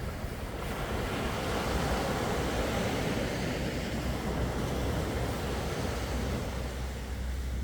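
Sea waves washing onto the shore: one wave swells about a second in and slowly recedes. A steady low rumble of wind on the microphone runs underneath.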